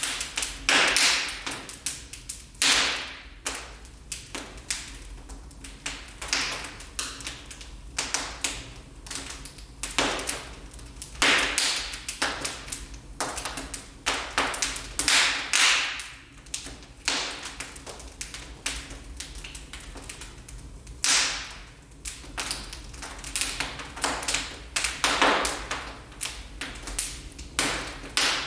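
Wood fire in a fireplace crackling and popping irregularly, with frequent sharp snaps and a few louder pops that hiss briefly after them.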